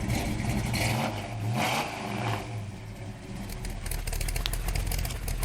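American muscle car V8 engine revving, its exhaust note rising and falling.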